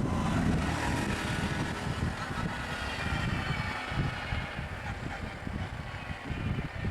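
A motor vehicle's engine running steadily, with wind buffeting the microphone; a whining layer above it fades out about five seconds in.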